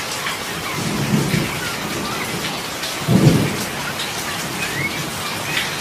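Heavy rain falling steadily on a street and nearby surfaces. Two short low rumbles break through, one about a second in and a louder one about three seconds in.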